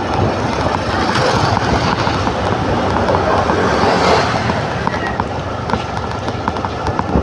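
Motor scooter running along the road, its engine a low steady hum under heavy wind and road noise on the microphone.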